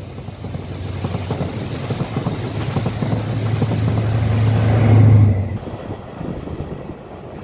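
High Speed Train passing close beneath: coaches rumbling over the rails, with the trailing Class 43 power car's diesel engine note building to a peak about five seconds in, then dropping away sharply as it passes under, leaving a fading rumble.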